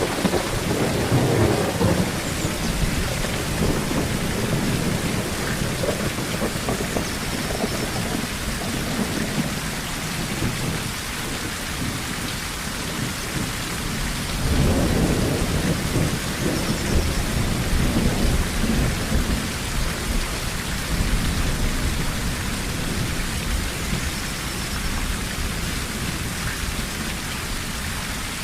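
Steady rain on a tin roof, with thunder rolling twice: once at the start, and again for several seconds from about halfway in.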